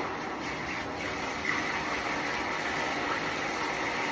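Bathtub tap running steadily, warm water pouring into the tub around the chickens.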